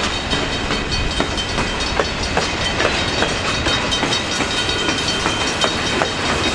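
Freight cars rolling past on the rails, steel wheels clicking over rail joints with a steady rattle and rumble, while an old crossing signal's bell rings on.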